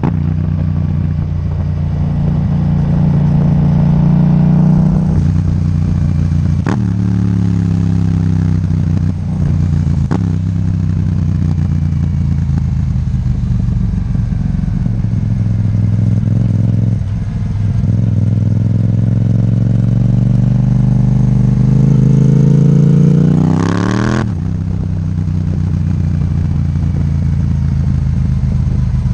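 Yamaha MT-07's parallel-twin engine through an Akrapovic titanium exhaust, revving hard. The pitch climbs and falls back several times, with one long climb about two-thirds through that cuts off suddenly.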